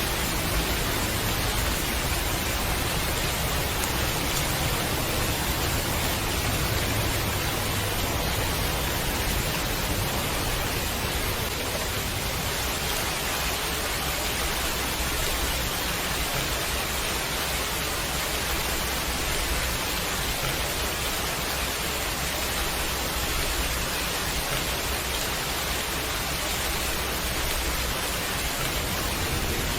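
Steady heavy rain: an even, dense hiss without breaks.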